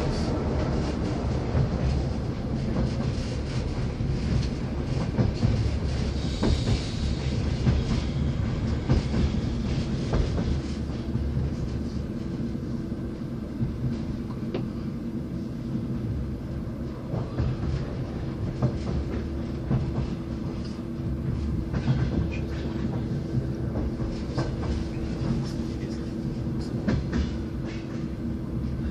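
A moving passenger train heard from inside a sleeper carriage: a steady low rumble and hum, with occasional knocks and rattles from the wheels and car body.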